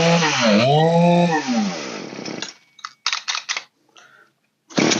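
Old Poulan two-stroke chainsaw engine revved with the throttle, its pitch rising and falling twice, then winding down and stopping about two seconds in. A few clicks follow, and a loud rough noise starts near the end.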